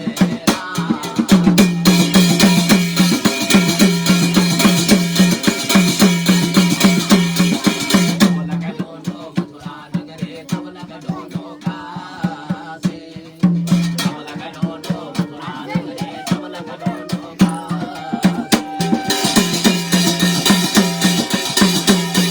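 Garhwali jagar folk music in an instrumental stretch without singing: fast, steady drumming over a held low drone. A bright, shimmering upper layer comes in for several seconds near the start and again near the end.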